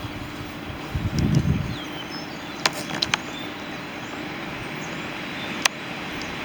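Outdoor background noise with a low gust of wind on the microphone about a second in, a few sharp clicks in the middle and near the end, and faint short high chirps.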